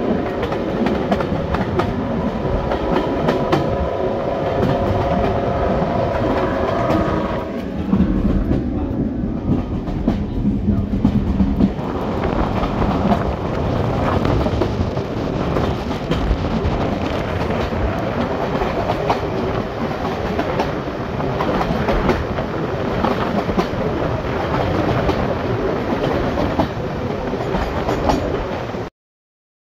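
Passenger train running on the rails, heard from a coach window: a steady rumble of wheels on track with rhythmic clickety-clack. There is a steady whine for the first several seconds and a lower hum a little later. The sound cuts off abruptly near the end.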